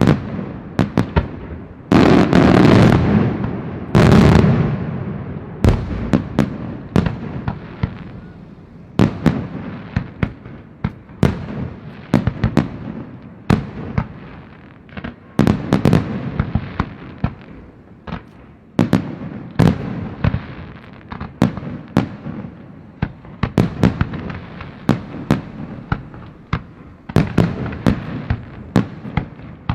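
Fireworks display: a dense run of sharp bangs and crackles, with two heavy booms and long rumbles about two and four seconds in.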